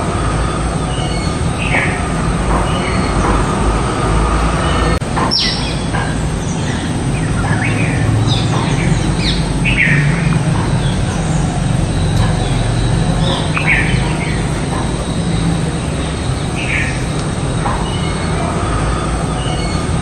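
Short high bird chirps, repeated every second or two, over a steady low rumble; one quick falling note about five seconds in.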